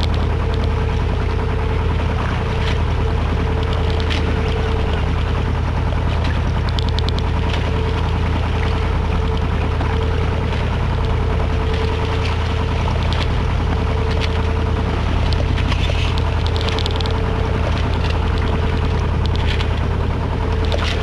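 Westerly Centaur sailing yacht's inboard diesel engine running steadily under way, a constant low hum with a steady higher tone over it.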